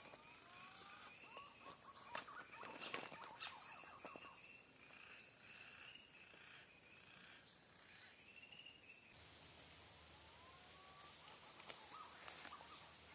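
Faint outdoor dusk ambience: a steady high insect whine, with birds calling in short chirps and curved whistled glides, plus a few small clicks.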